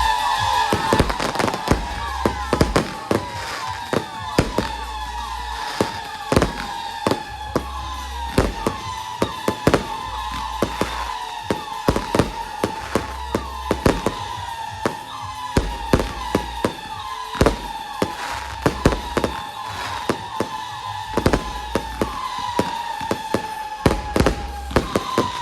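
Fireworks going off in quick succession: a steady run of sharp bangs and cracks, with repeated short whistles that fall slightly in pitch.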